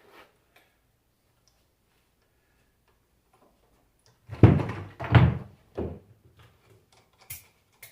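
Three dull knocks about half a second apart, as alternator parts are handled and set down on a workbench, then two short scrapes near the end.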